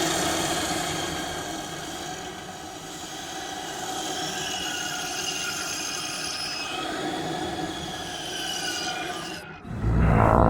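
Monster-alien creature vocal sound effect: one long, drawn-out, screechy groan made of several tones that slide slightly, stopping about nine and a half seconds in. Just before the end, a louder, deeper creature sound begins.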